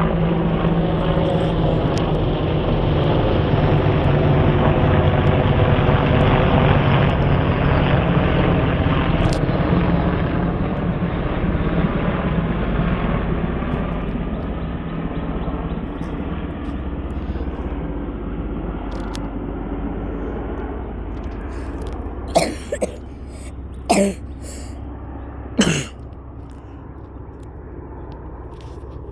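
Two AH-64 Apache military helicopters flying over: a steady drone of rotors and twin turbine engines that builds for the first several seconds, then slowly fades as they move away. Near the end, three short loud sounds come a second or two apart.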